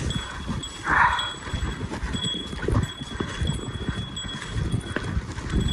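Footsteps on a slippery mountain trail: irregular thuds and scuffs of boots, with a brief scraping rustle about a second in.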